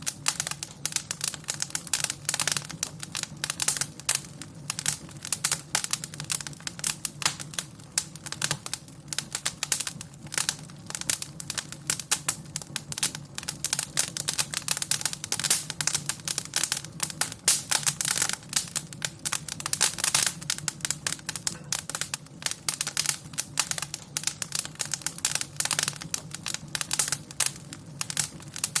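Wood fire crackling: dense, irregular pops and snaps over a steady low background of the burning fire.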